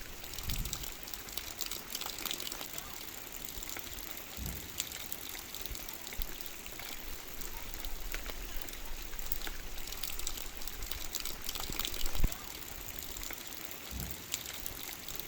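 Heavy rain falling steadily, a dense hiss of many small drop impacts. A few low thumps break through, the loudest about twelve seconds in.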